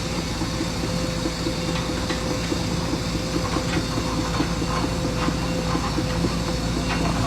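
Heavy diesel engine of an excavator running steadily, with a fast, even pulsing clatter and a few faint clicks and clanks.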